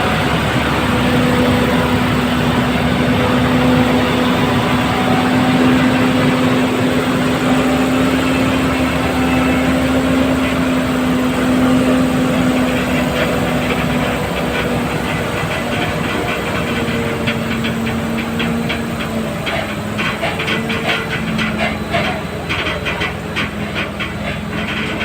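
Heavy truck engine running with a steady drone and a hiss. Rapid clicking and rattling grows through the second half.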